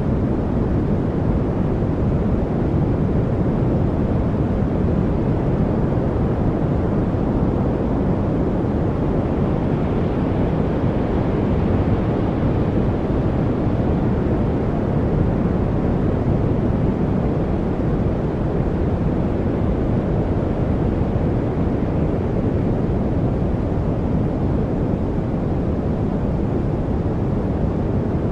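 Steady, deep hiss of a continuous noise track sold as white noise, its sound weighted toward the bass rather than bright. It holds an even level throughout, with no birds, water trickles or other distinct events standing out.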